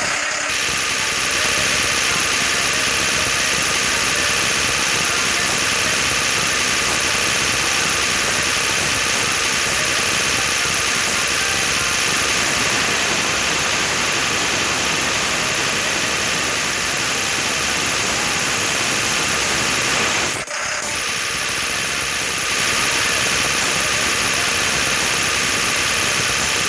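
Tractor diesel engine running steadily, with a brief drop about twenty seconds in.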